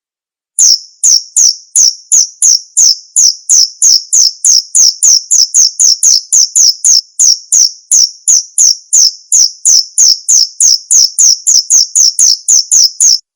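Male cricket chirping: a steady train of short, high-pitched chirps, about three a second. It starts about half a second in and stops abruptly near the end.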